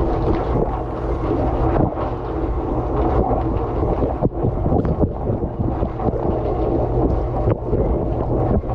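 Dishwasher running, heard from a camera inside the tub: water from the spray arms splashing over the dishes and the camera, over a steady low hum of the circulation pump, all muffled and heavy in the low end.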